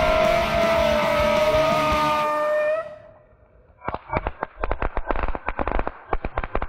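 Music with a held, slowly falling note that cuts off suddenly about three seconds in. About a second later comes a fast, irregular run of sharp pops and crackles, like firework crackling going off.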